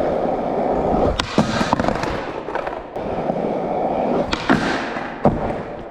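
Skateboard wheels rolling on concrete, with several sharp clacks of the board: two close together about a second in, and two more near the end. The space is echoey.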